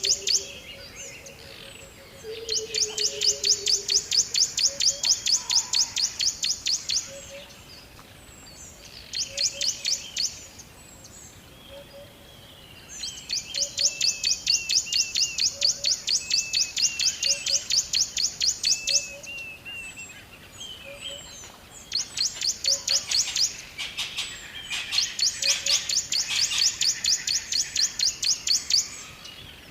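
Birds chirping in fast, high trills that run for several seconds at a time and recur again and again, over a soft low note repeating steadily.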